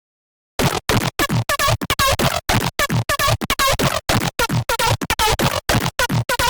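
Serum wavetable synth patch playing a fast run of short, choppy notes at about four to five a second. Each note has a falling pitch sweep in the bass and a wobbling, scratch-like top. The run starts about half a second in, after a stretch of silence.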